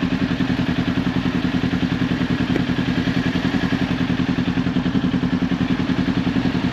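Kawasaki Ninja 400's parallel-twin engine running steadily at an unchanging pitch, its exhaust pulsing evenly.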